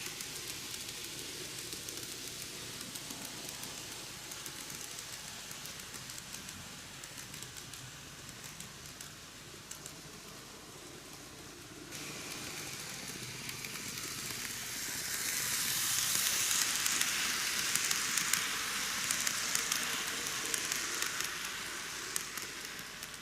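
KATO N gauge C11 steam locomotive model and its coaches running on track: a steady hissing rattle with many small clicks from the wheels. It gets louder for a while in the second half, as if the train runs close by.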